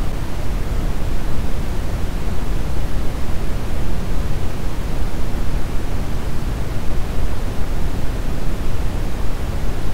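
Brown noise: a steady, even rushing hiss weighted toward the low end, with no change or event.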